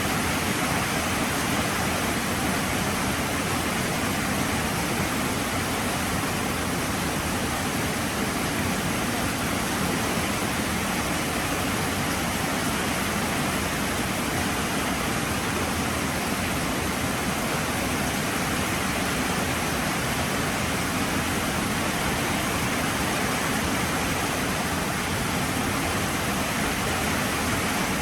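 Heavy rain falling steadily, an even, unbroken hiss and patter.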